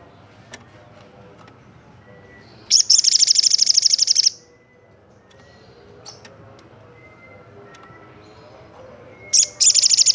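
Olive-backed sunbird giving a loud, rapid, high-pitched trill of about a second and a half, with a second trill starting near the end. Fainter short chirps and whistles run underneath.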